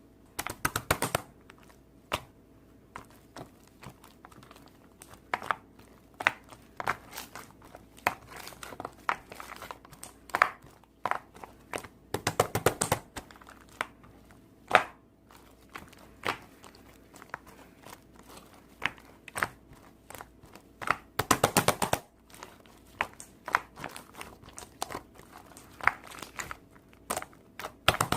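Irregular crinkling and crackling, as of something being crumpled and handled, with denser stretches of rustling about a second in, around halfway through, and about three-quarters of the way through.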